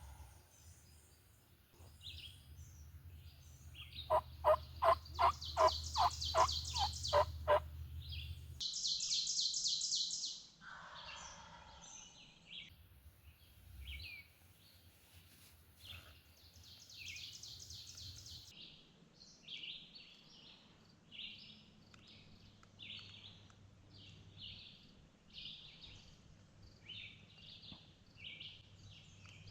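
Wild turkey calling: a run of about nine evenly spaced yelps over three and a half seconds, then a short high burst, with small songbirds chirping repeatedly through the rest.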